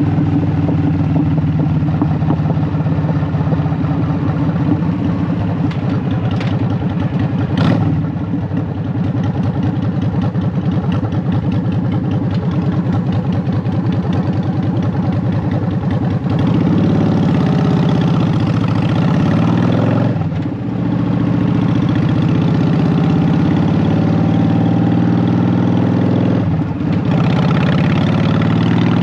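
Honda Shadow VT750's V-twin running through Vance and Hines Short Shot exhaust pipes while riding. The engine holds a steady note for the first half, then its pitch climbs and falls with the throttle, with brief drops in level between runs.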